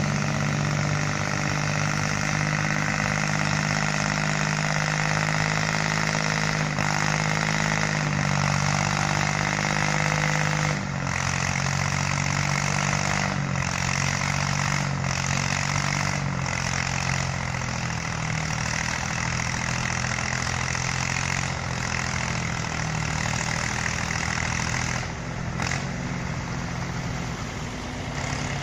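Tractor engine running steadily, its pitch stepping down about eleven seconds in.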